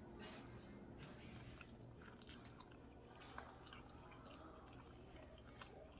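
Faint close-up chewing of crispy fried chicken, with scattered small crunches and wet mouth clicks.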